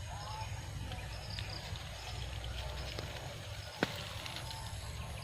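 Outdoor nature ambience: faint, short, high chirps repeating over a steady low rumble, with one sharp click about four seconds in.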